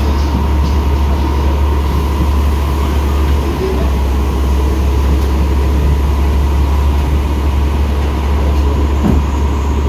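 Steady low rumble of a metre-gauge passenger train in motion, heard from inside the carriage, with a constant high hum running through it.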